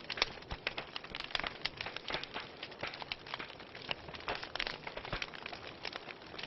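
Wood fire burning in a fireplace, crackling with many irregular pops and snaps, several a second, over a soft steady hiss.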